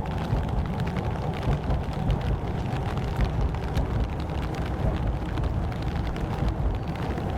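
Rain falling, with many small drop ticks over a steady low rumble.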